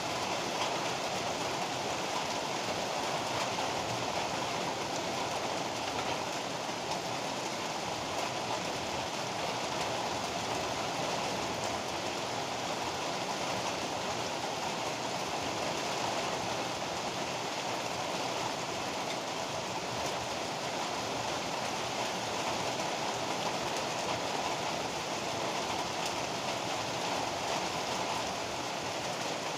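Heavy rain falling steadily, an even rushing noise without thunderclaps.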